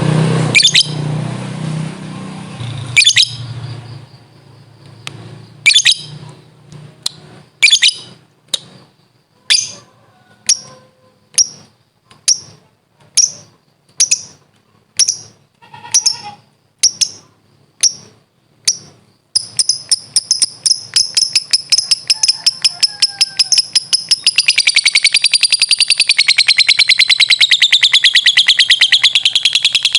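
Lovebird calling: sharp, high single chirps about once a second that speed up, a little before twenty seconds in, into a fast, continuous rattling chatter, the long 'ngekek'. A noisy stretch with a low hum fills the first few seconds.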